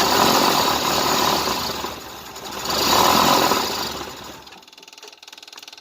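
1988 Tennant 255 Series II sweeper's engine being cranked over by its starter without catching, in two surges, stopping about four and a half seconds in. It seems to be getting no fuel.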